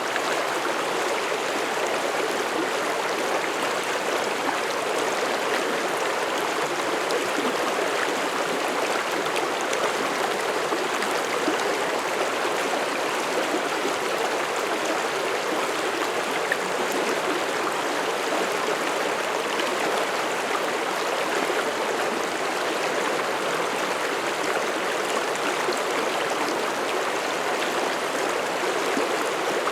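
Mountain stream rushing and babbling over rocks in a steady, even flow.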